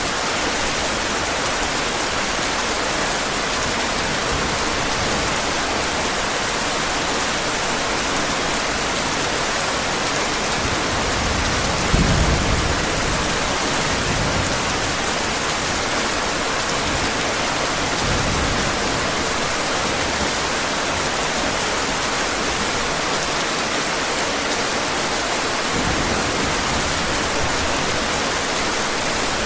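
Steady heavy rain, an even hiss, with a low roll of thunder a little under halfway through and fainter rumbles later.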